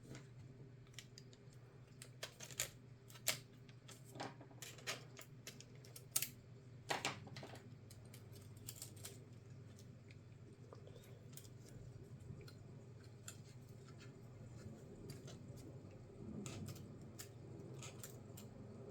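Irregular light clicks and taps of small tools and parts being handled while working on a laptop, thicker in the first half and fainter after, over a steady low hum.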